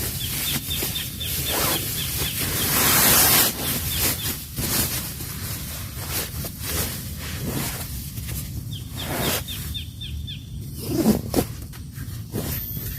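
Rain falling steadily, with many single drops tapping sharply. Twice, a small animal gives a fast run of high chirps: once just after the start and again about nine seconds in.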